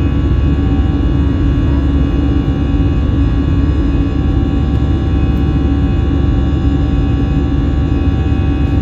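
Steady cabin noise of an Airbus A320-200 in flight: a low rumble of jet engines and rushing air with a steady, droning hum of fixed tones over it.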